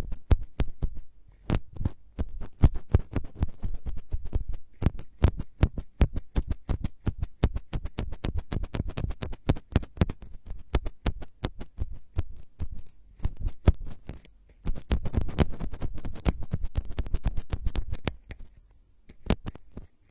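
ASMR trigger sounds: rapid scratching strokes, several a second, growing denser and fuller about fifteen seconds in before a brief lull near the end.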